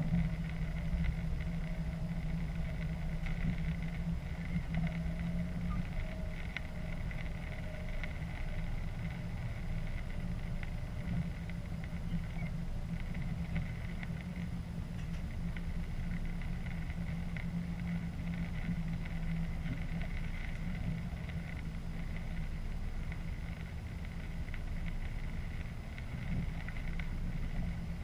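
Train running steadily along the line, heard from inside the driver's cab: a continuous low running hum with a faint steady whine over it.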